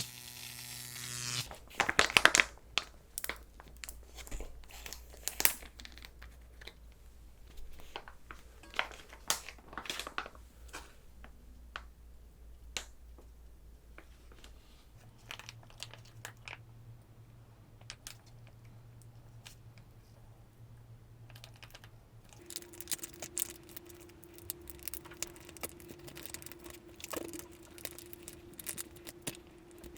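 Scattered light clicks, taps and crinkling of kitchen handling during cold-noodle preparation, with a few louder knocks about two seconds in. A faint steady hum runs underneath and shifts pitch twice.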